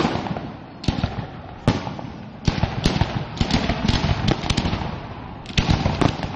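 Fireworks bursting: a loud bang at the start, two more single bangs in the next two seconds, then a rapid volley of bangs and crackling from about two and a half seconds in, with a fresh cluster near the end.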